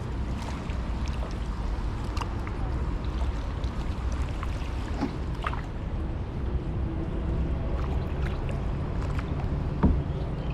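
Kayak paddle working the water: splashing and dripping over a steady low rumble, with one sharper knock near the end.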